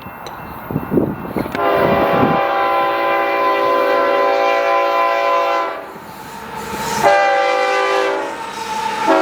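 Diesel locomotive's multi-chime air horn sounding two long blasts, the first lasting about four seconds and the second starting about seven seconds in. Before the horn there is low, uneven rumbling.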